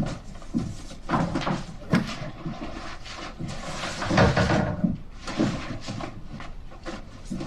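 Rummaging through stored boxes and a cupboard: a series of irregular knocks, bumps and rustles, with a louder clatter about four seconds in.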